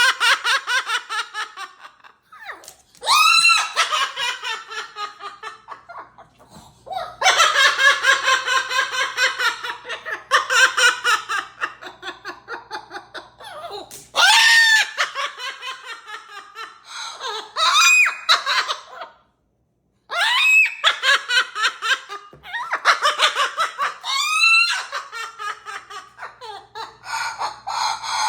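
Repeated bursts of high-pitched laughing, each a quick run of pulses with sharp upward swoops in pitch, broken by short pauses.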